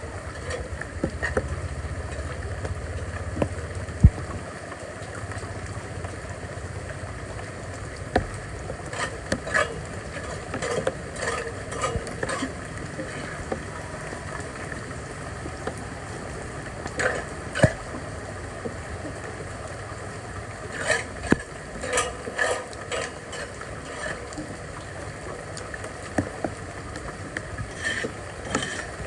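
Steady rush of water, broken every few seconds by short bouts of clattering and scraping, typical of debris being cleared from a clogged street drain.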